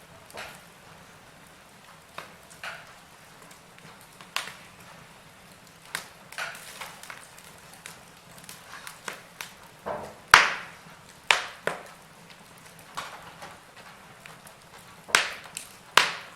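Wood fire crackling in a fireplace: irregular sharp pops and snaps over a low steady hiss, the loudest pop about ten seconds in and a few close together near the end.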